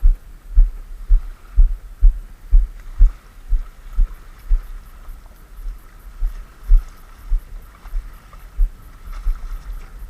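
Regular low thumps, about two a second, over a faint steady hum.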